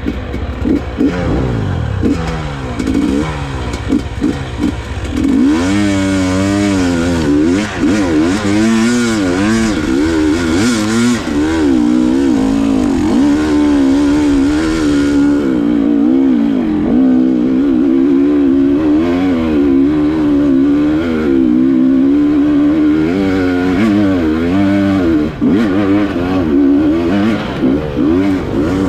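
Enduro motorcycle engine, revved up and down continually while riding, its pitch rising and falling every second or so.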